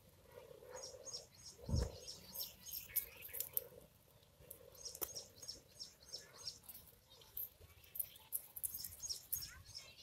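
Small birds chirping in quick runs of short, high, thin notes, several a second, coming in three bouts. A single low thump sounds about two seconds in.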